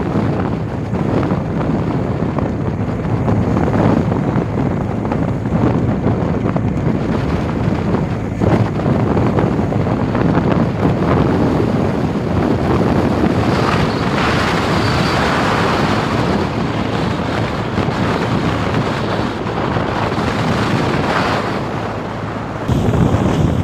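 A small boat's motor running under way, with wind buffeting the microphone and water rushing past the hull. A brighter hiss of water rises for a couple of seconds about fourteen seconds in.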